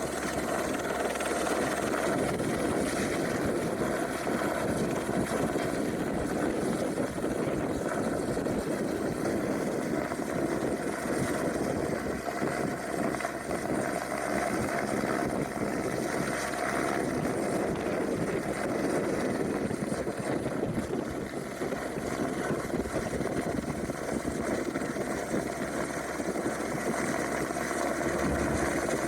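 AS350 helicopter hovering, its rotor and turbine making a steady, unbroken sound, with gusty wind.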